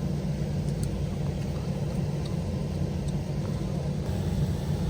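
Air handler blower running with the system cooling, a steady low rumble of fan and airflow.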